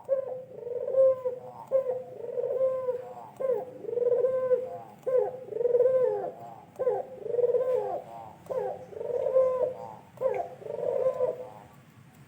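White pugeru dove cooing: a run of about seven low, repeated cooing phrases, roughly one every one and a half seconds, stopping shortly before the end.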